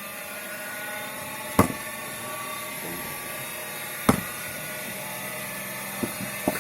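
A homemade screw-cone log splitter runs steadily, its 350 W washing-machine motor and belt-driven flywheel giving a steady whine. Two sharp knocks come about a second and a half in and again about four seconds in.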